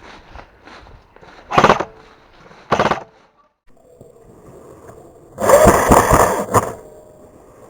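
Two short bursts of airsoft gun fire, then a longer, louder burst of noise lasting just over a second.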